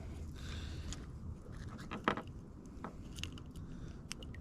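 Handling noises on a kayak: one sharp knock about two seconds in, then a few light clicks and scrapes, over a steady low rumble.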